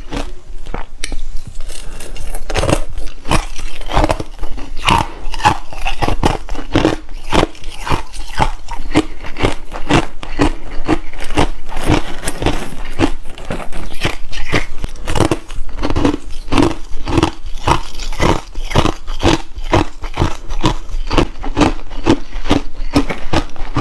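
Close-up biting and chewing of hard, refrozen crushed ice: rapid, loud crunches, several a second, with a short pause about a second in.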